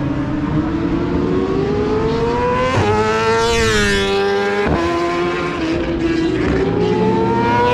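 1000 cc superbike racing motorcycles at full throttle: the engine pitch climbs steadily and drops sharply at upshifts about three seconds in, about five seconds in and again at the end. One bike passes close about three seconds in, its pitch falling as it goes by.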